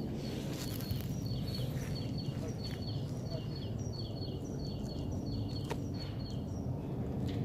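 A small songbird singing a short high phrase over and over, two to three times a second, over a steady low outdoor rumble.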